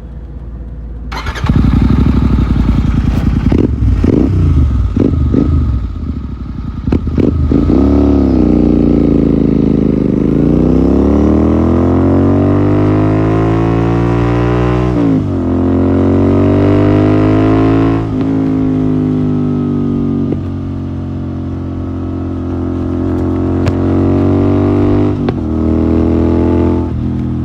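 Royal Enfield Continental GT 650's parallel-twin engine through a Red Rooster aftermarket exhaust: a few quick throttle blips, then riding and accelerating through the gears. The engine note rises steadily and drops sharply at each of about three gear changes.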